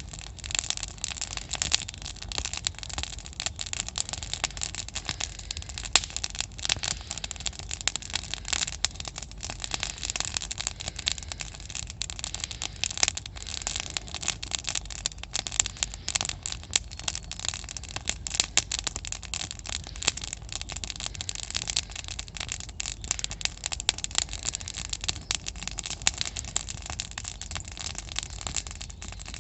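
Campfire crackling, a dense irregular run of sharp snaps and pops.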